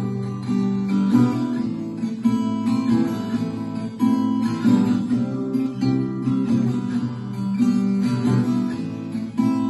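Acoustic guitar strumming chords in an instrumental passage between sung verses of a song.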